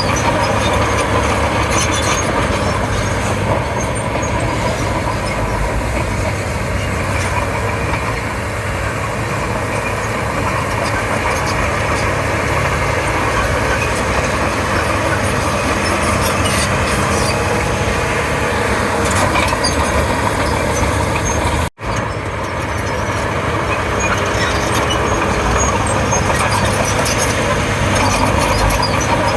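Komatsu D31P crawler bulldozer working, its diesel engine running steadily and loud, with a brief break in the sound about three quarters of the way through.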